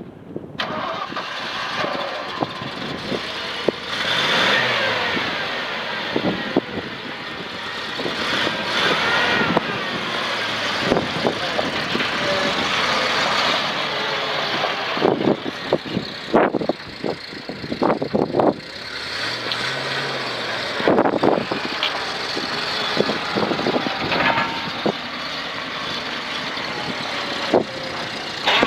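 1985 Ford F600 dump truck's engine running, its pitch rising and falling a few times, with several sharp knocks near the middle.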